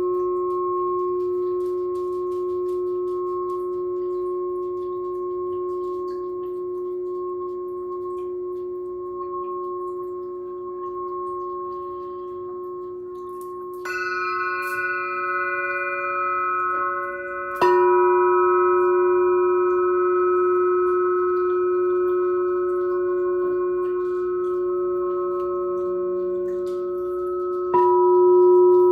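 Glass singing pyramid and crystal singing bowl ringing with long sustained tones. They are struck afresh about halfway through, again a few seconds later, and once more near the end, each strike adding new higher ringing tones.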